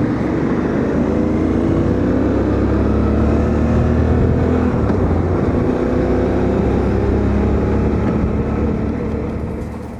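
Motorcycle engine running at highway speed with wind rush. Its pitch rises as it accelerates over the first few seconds, then holds steady, and it fades out near the end.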